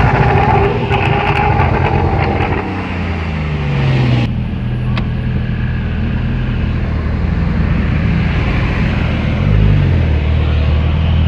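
Porsche 911 Carrera GTS flat-six through an IPE exhaust, its revs falling away over the first few seconds, then running at a steady low rumble. A short rev blip rises and falls near the end.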